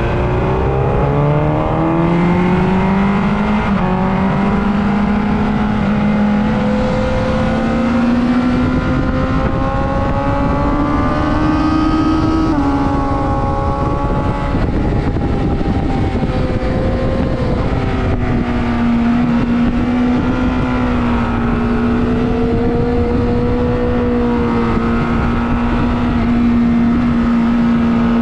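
Superbike engine running hard on a racetrack, its pitch climbing steadily for about twelve seconds, dropping abruptly at an upshift, then rising and easing before holding steady near the end, over a heavy rush of noise.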